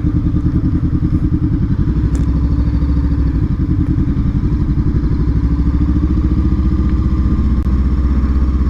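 Honda CBR500R's parallel-twin engine running steadily at low revs, a fast, even pulsing with no change in pitch.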